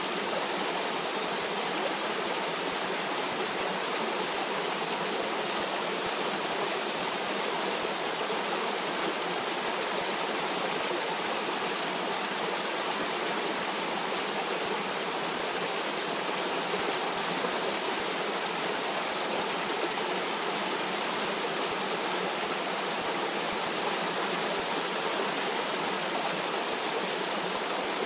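Stream water flowing over rocks: a steady, even rush with no lulls.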